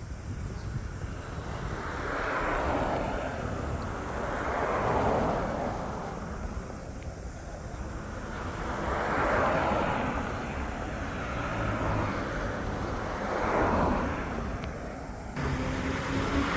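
Outdoor traffic noise: vehicles passing one after another, each swelling and fading over a couple of seconds, about five times, with a sudden change in the background near the end.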